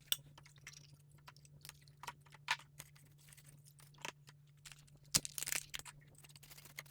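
Scattered clicks, scrapes and light knocks of a chainsaw's plastic housing and parts being handled and scrubbed with a small brush. One sharper knock about five seconds in is followed by a quick run of clicks. A low steady hum runs underneath.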